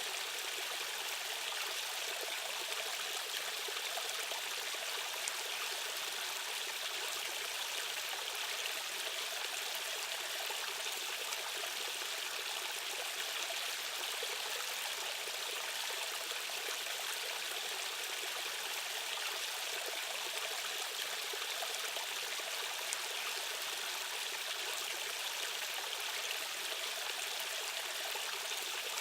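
Fast-flowing stream water rushing steadily, an even bright hiss with little deep rumble.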